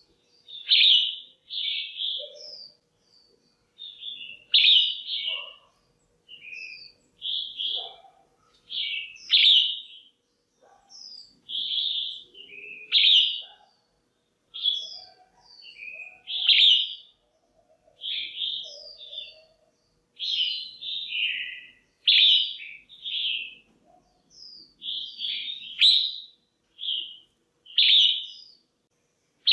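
Female red-whiskered bulbul calling: short, bright chirping phrases, repeated about once a second with brief gaps between them. This is the call that keepers use to stir a male bulbul or to pair birds.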